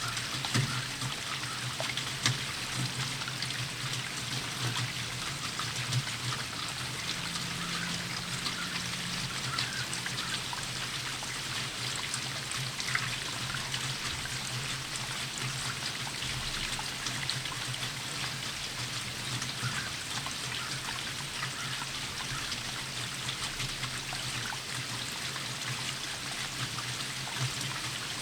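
Steady rainfall: an even wash of rain with many small drop ticks and a few louder single drops scattered through it.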